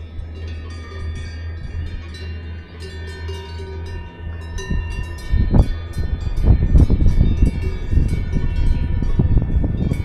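Many Swiss cowbells clanking and ringing irregularly, one over another, as grazing cattle move. About halfway through, a low rumble underneath grows louder.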